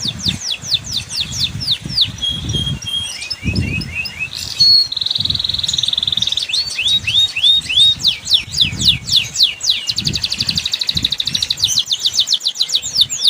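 Domestic canary singing a fast, continuous song: runs of quick repeated downward-sweeping notes alternating with rolling trills. It is a song lure, used to coax a canary that is reluctant to sing into singing.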